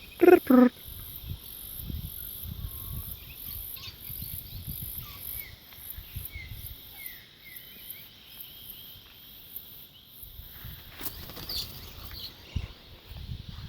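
Insects trilling steadily in a fast, even pulse, with faint short chirps around the middle. A loud short voice-like call comes right at the start.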